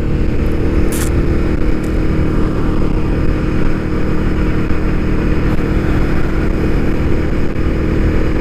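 Motorcycle engine running at a steady speed under way, a constant drone with a strong low rumble. A brief click about a second in.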